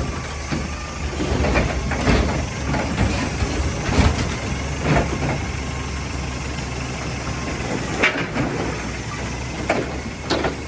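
Heavy truck engine running steadily at a low, even pitch, with scattered short clanks and knocks every second or two.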